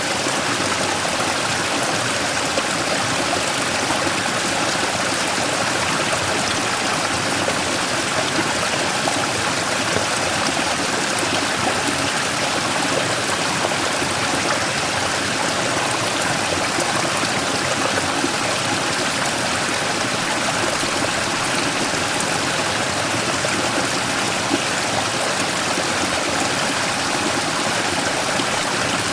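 Mountain stream flowing over a large rock in a small waterfall: a steady, even wash of splashing water with no breaks.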